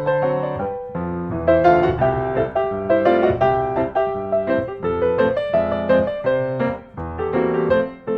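Background piano music: a steady run of quick struck notes over a bass line.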